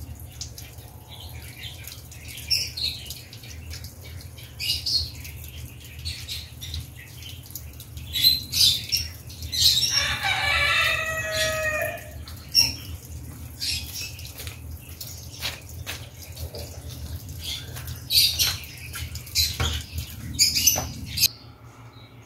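Birds calling outdoors: short high chirps scattered throughout, with a longer pitched call lasting about two seconds around the middle, over a steady low hum.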